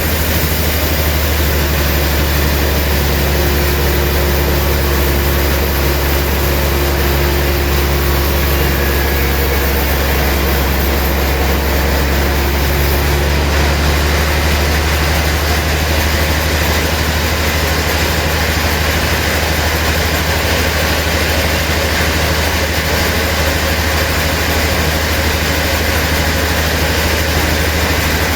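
Heavy sawmill machinery running steadily, a loud low drone under a constant hiss.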